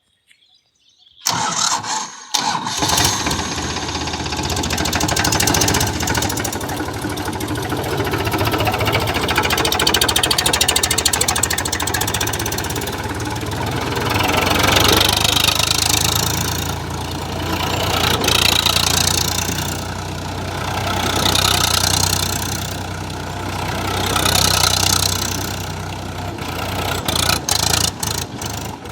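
Tractor diesel engine starting about a second in, then running hard, its sound swelling and fading about every three seconds as the tractor is spun round in reverse gear.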